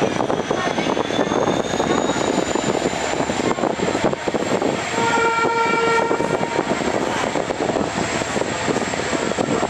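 Passenger train running, a dense steady rumble and rattle with a thin high whine that rises in pitch over the first few seconds and then holds steady. About halfway through, a horn sounds once on a single note for about a second.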